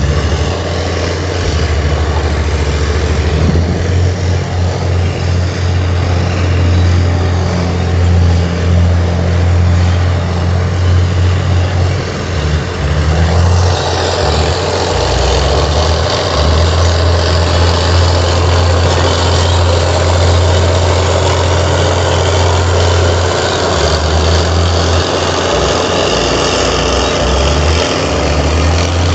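Heavy earthmoving machine's diesel engine running steadily, with its sound changing about thirteen seconds in.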